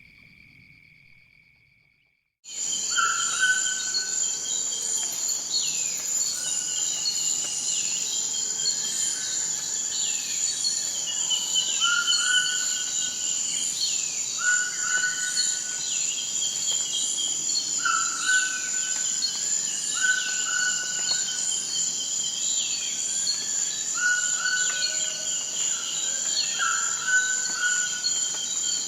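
Forest birds and insects. A steady high insect trill runs under birds calling over and over: a short whistled note about every two seconds, falling chirps, and quick high upward sweeps. The sound starts a couple of seconds in, after a fading call and a brief gap.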